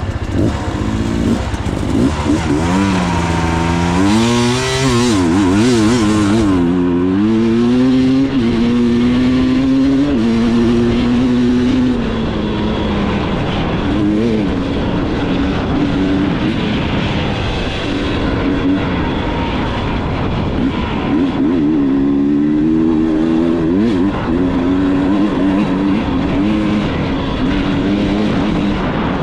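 Dirt bike engine riding along, revving up and easing off again and again, so its pitch repeatedly climbs and drops.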